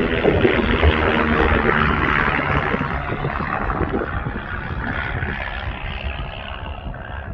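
Wind buffeting the microphone in uneven low rumbles over a steady rushing hiss, easing slightly toward the end.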